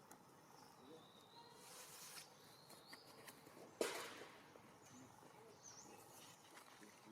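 Quiet outdoor ambience with a few faint, high chirps and one sudden sharp noise about four seconds in, the loudest moment.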